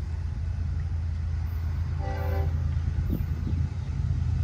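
Approaching freight train's diesel locomotives rumbling low and steadily growing louder, with a short horn blast about two seconds in.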